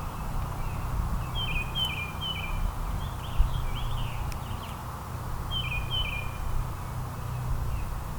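Small songbirds chirping, short high notes repeated in quick runs, in two bouts a few seconds apart, over a steady low rumble.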